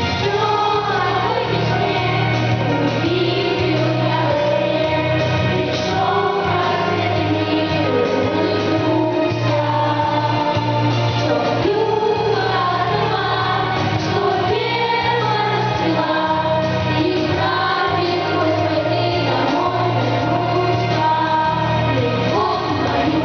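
Several voices singing a song together over an instrumental backing track with a steady bass line.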